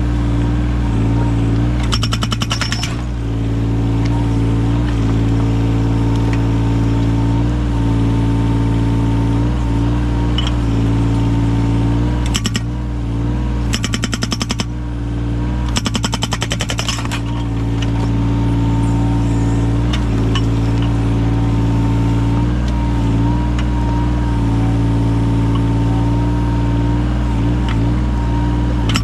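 Yanmar mini excavator's diesel engine running steadily while its hydraulic breaker, fitted with an axe-blade chisel, hammers in four short bursts of rapid strikes, splitting firewood.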